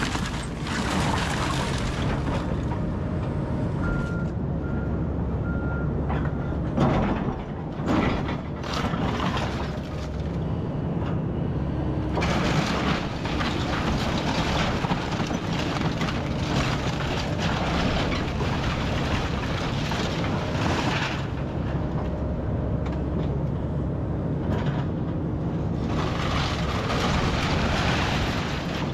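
Diesel engine of a Kobelco SK210 hydraulic excavator running under load through demolition, with long stretches of crunching and breaking debris. There are two heavy knocks about seven and eight seconds in. A backup alarm beeps a few times about four seconds in.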